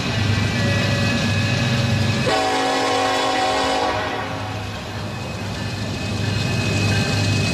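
Train running with a steady rumble. About two seconds in, its horn sounds a chord for roughly a second and a half.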